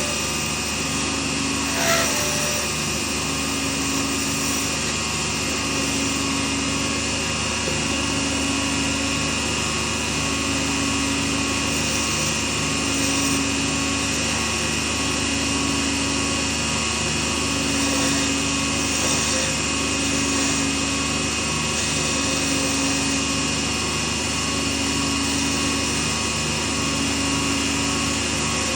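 Small lathe running steadily at constant speed, with a faint pulsing about every second and a half.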